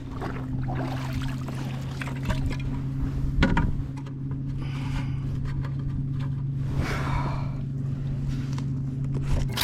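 A steady low hum on the kayak, with water splashing and scraping against the hull a few times.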